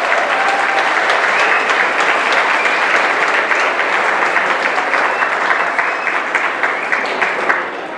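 Audience applauding, a dense sustained clapping that eases off slightly near the end.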